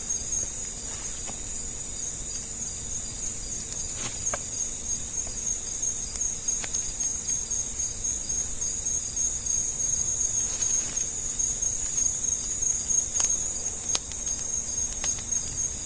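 A chorus of forest insects trilling steadily at a high pitch, with a few faint scattered clicks.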